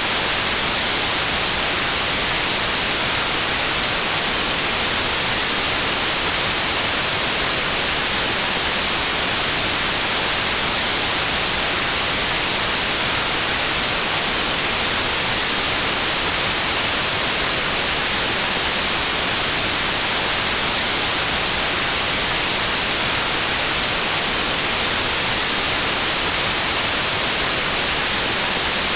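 Steady, unvarying white noise: an even hiss, strongest in the high frequencies, with no changes or events.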